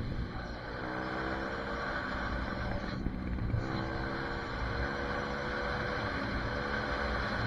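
SSR 150 pit bike's single-cylinder four-stroke engine accelerating. Its pitch climbs, drops at a gear change about three seconds in, then climbs again and holds steady.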